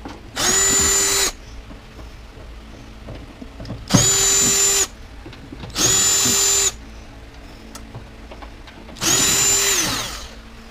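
Power drill driving screws out of the washer/dryer's sheet-metal panels: four short runs of the motor at a steady pitch, with pauses between, the last run trailing off as it stops.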